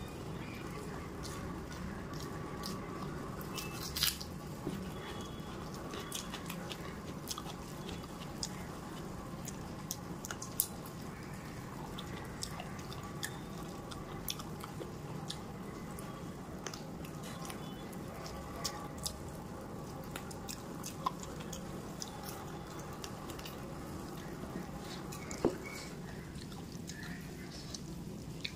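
Close chewing and wet mouth sounds of someone eating rice and potato fry by hand, with scattered small clicks and smacks over a steady low background hum.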